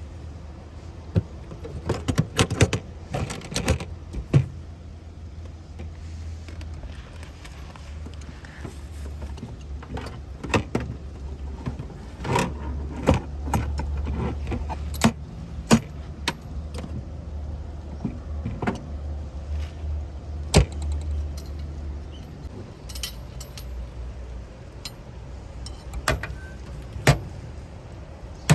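Camping gear being handled: scattered metallic clinks and knocks, with clusters of clinking near the start, in the middle and near the end, over a steady low rumble.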